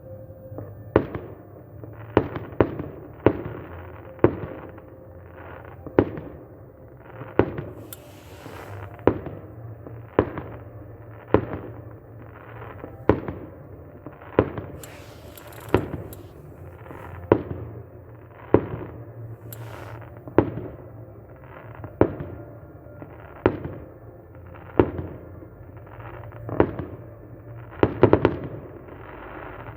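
Festive fireworks salute: aerial shells bursting one after another, a sharp bang roughly every second with a short rumbling tail. There is a quick run of bangs a couple of seconds in and a close double bang near the end.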